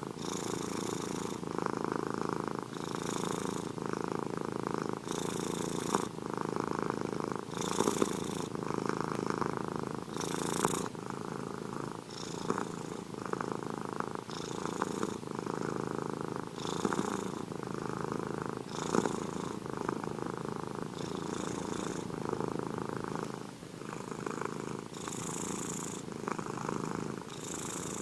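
Domestic cat purring steadily, a continuous rumble that swells and eases in a regular rhythm with its breathing, about every second or two.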